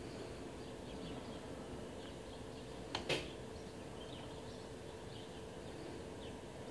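Faint, short, high bird calls repeating now and then over a steady outdoor background with a low hum. A sharp double click about three seconds in.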